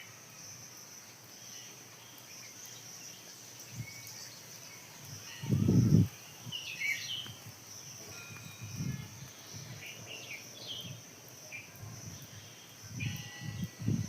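Outdoor ambience: a steady high insect drone with scattered short bird chirps, broken by a few low thumps, the loudest about halfway through.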